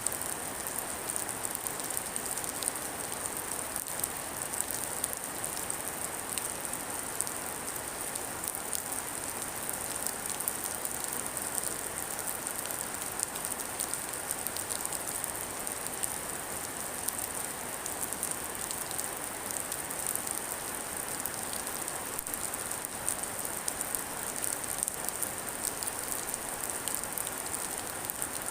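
Steady rain falling, with many fine drop ticks over an even hiss.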